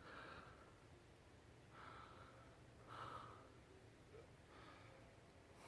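Faint breathing close to the microphone: about four soft breaths over a low background hum.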